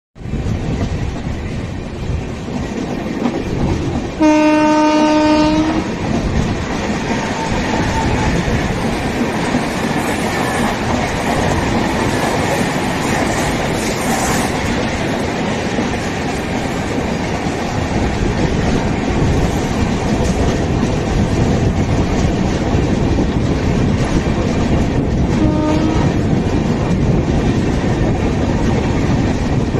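Indian express passenger train running at speed, heard from an open coach door: a steady wheel-and-rail rumble with clickety-clack over rail joints. A train horn sounds for about a second and a half about four seconds in, and briefly again near the end. A suburban electric local passing on the next track adds its own rumble midway.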